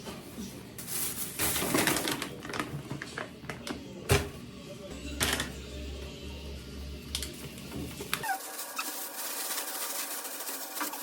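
Scraping, tapping and clicking of hand tools working cement around a toilet or washbasin base, with one sharp knock about four seconds in.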